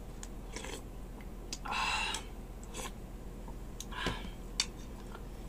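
A man chewing a mouthful of stewed cow's foot. There is a short breathy hiss about two seconds in, scattered faint clicks, and a sharp knock near the end.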